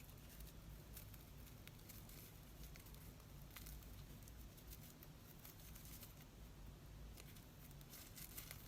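Near silence with faint scattered ticks and rustles of paper being handled, a few more of them near the end.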